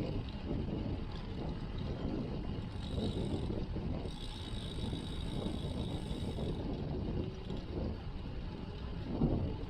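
Wind rumbling on a chest-mounted action camera's microphone during a road-bike ride, mixed with road and tyre noise. A fainter, higher steady hiss joins in the middle for about two and a half seconds.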